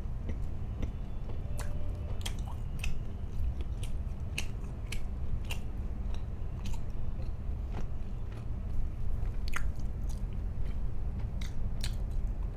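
Close-miked chewing and biting into a toasted sandwich, with wet mouth sounds and irregular crisp crackles from the bread, over a steady low hum.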